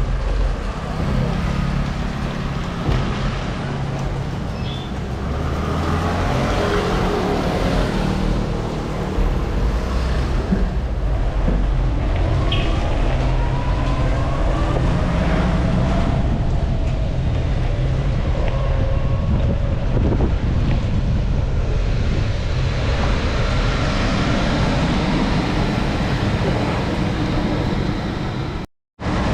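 Wind rushing over the microphone and road traffic heard while riding, with vehicles passing by; the sound cuts out for about half a second near the end.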